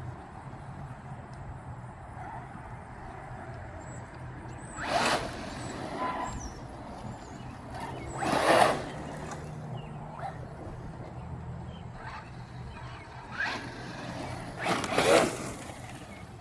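Mojave 4S RC truck running, heard as three short, loud bursts of motor and tyre noise about five, eight and fifteen seconds in.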